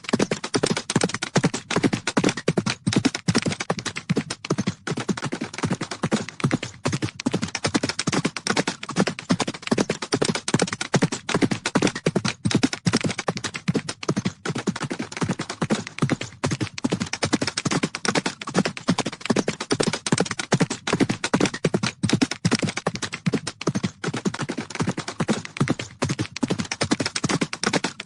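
Horses galloping: a fast, dense, unbroken run of hoofbeats.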